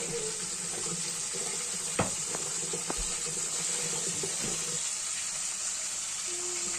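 Tap water running steadily into a kitchen sink during dishwashing, with a sharp clink about two seconds in.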